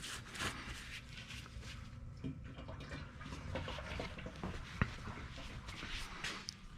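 Engine oil dripping and trickling from the open drain hole into a drain pan, with scattered small clicks and one sharp knock about five seconds in.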